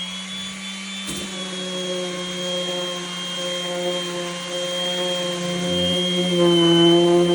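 Galaxy Pro electric rotary sander running on oak, a steady motor whine whose pitch wavers slightly as the pad works the wood.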